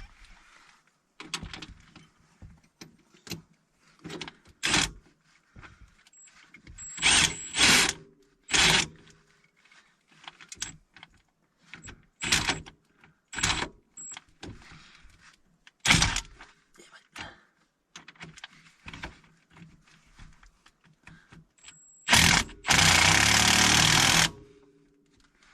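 Hand tools on a vehicle's shock absorber mount during a bolt replacement: a series of separate metal clinks and knocks. Near the end comes one loud, continuous burst of mechanical noise lasting about two seconds.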